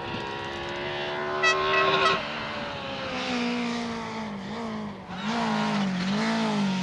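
Rally car engine pulling hard with its revs climbing, two sharp cracks about a second and a half and two seconds in, then a lower engine note that rises and falls several times as the driver works the throttle through the stage.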